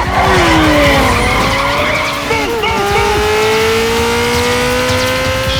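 Car chase: high-revving car engines with tires squealing in short bursts. One engine note falls in the first second, and another climbs steadily from about halfway through.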